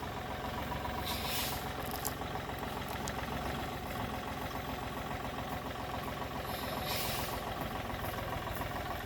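Heavy machine's engine running steadily at a low, even speed, with two short hisses, one about a second and a half in and one near the end.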